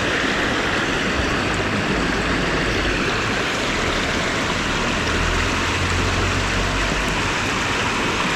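River water rushing steadily over rocks, with a low rumble for a couple of seconds after the middle.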